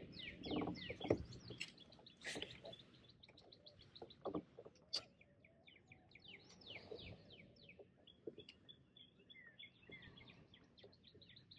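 Small birds chirping: quick runs of short, high chirps that slide down in pitch, with a few faint taps and clicks here and there.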